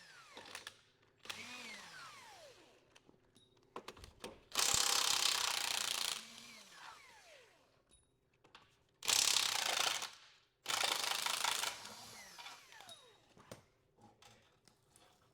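A hand-held power tool runs in three bursts of about a second each, its motor whine falling away after each trigger release, with scattered metallic clicks between bursts.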